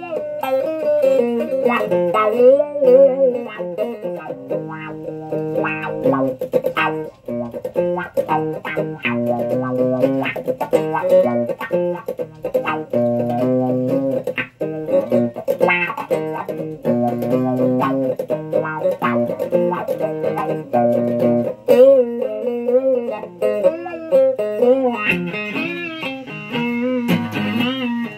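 Electric guitar played through an effects rig: a run of single-note lines with frequent string bends and vibrato.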